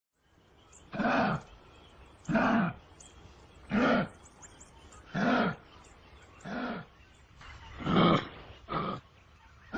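A wild animal giving a series of seven short, pitched calls, each rising and then falling, repeated about every second and a half.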